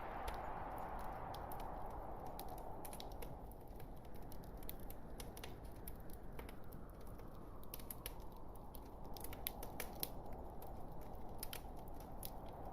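Logs burning in a fireplace: many sharp crackles and pops over a steady low rush of flame. The rushing fades about three seconds in and swells again near the end.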